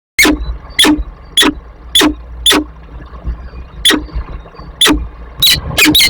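A loud series of short, sharp taps or knocks from something on the roof: a steady run about every half second, a pause, then quicker near the end. The uploader wonders whether kestrels are making them.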